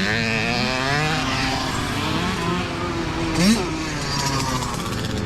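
Several mini dirt bike engines running and revving together, their pitches rising and falling; one engine revs up sharply and louder about three and a half seconds in.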